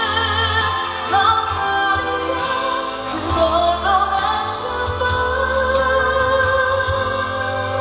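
A woman singing a ballad live over a band backing, holding long notes with vibrato.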